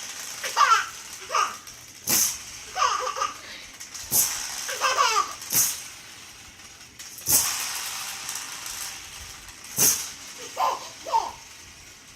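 A baby laughing and giggling in short bursts at a toy rattle. The rattle is shaken in quick sharp shakes about six times, each a second or two apart, and the laughs follow most of the shakes.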